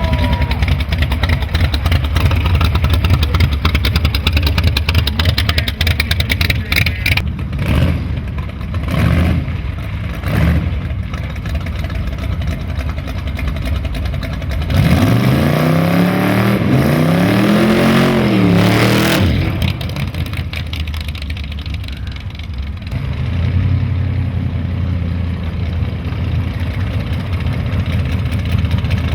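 Small-block Chevy V8 in a 1948 Dodge milk truck rat rod running with a steady low rumble. About halfway through, it revs up and falls back over a few seconds.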